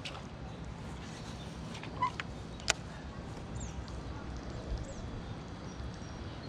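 Quiet outdoor river ambience: a steady low rumble, two sharp clicks a couple of seconds in, and a few faint high chirps.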